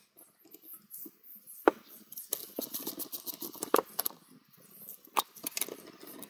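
Small parts of a gear-shift actuator being handled and taken apart with hand tools: light scraping and ticking, with three sharp clicks spread through.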